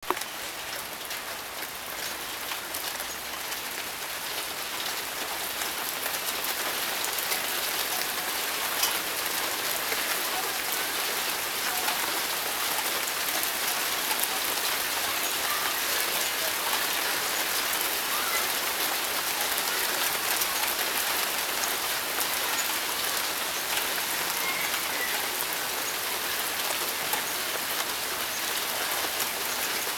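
Rain falling on concrete paving slabs and grass at the start of a shower: a steady hiss of many fine drop ticks that grows a little louder over the first ten seconds as the rain picks up.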